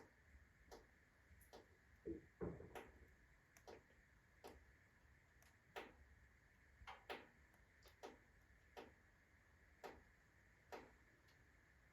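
Wood fire in a stove crackling with sparse, irregular pops, a few louder ones close together about two seconds in; the log burning is rotten, fungus-eaten wood on hot embers.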